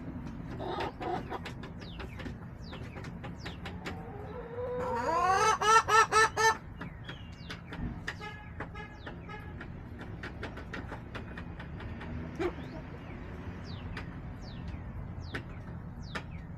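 Backyard chickens clucking, with one loud call that rises in pitch and breaks into quick repeated squawks about five to six and a half seconds in, and a shorter run of repeated notes a couple of seconds later. Small birds chirp throughout over a steady low hum.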